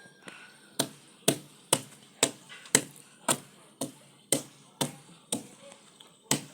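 A hand tool striking wood in steady blows, about two a second, starting about a second in, while a chicken coop is being built.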